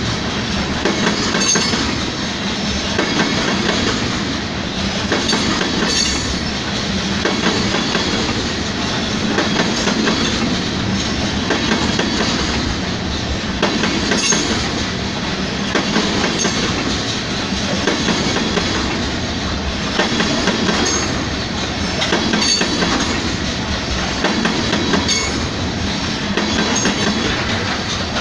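A train of gasoline tank cars rolling past at speed: a steady rumble of steel wheels on rail with repeated clickety-clack as the wheels cross rail joints.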